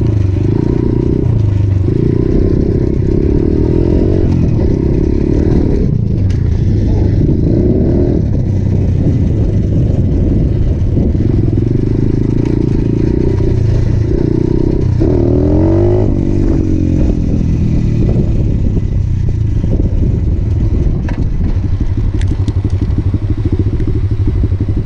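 125cc motorcycle engine running under way, its pitch rising and falling as it is revved and shifted, with a quick run of pitch glides about two-thirds of the way through.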